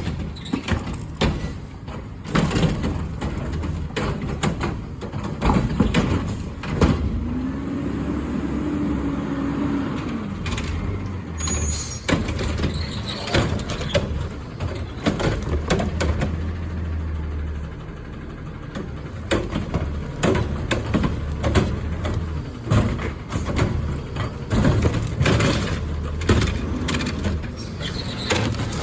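Garbage truck working its route: the engine runs steadily under repeated clanks and bangs, with a whine that rises and then falls a few seconds in.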